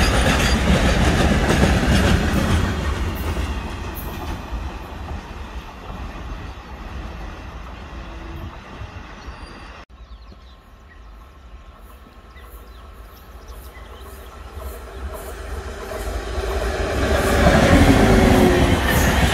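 Container freight train's wagons rolling past on the rails, the rumble and wheel clatter fading away over several seconds. After a sudden break about ten seconds in, a passenger train approaches and its coaches pass, the rumble and wheel clatter growing loud near the end.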